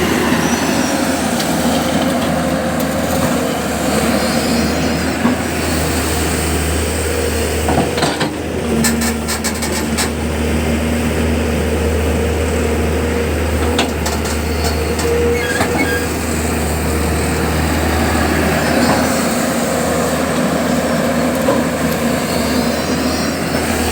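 Heavy diesel engine running steadily at a mud-loading job, with a short run of sharp clicks about eight to ten seconds in.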